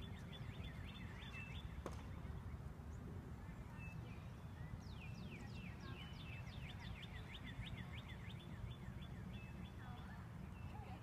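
A songbird singing long runs of quick, falling notes, one ending about a second and a half in and a longer one from about five to nine seconds in, over a steady low background rumble.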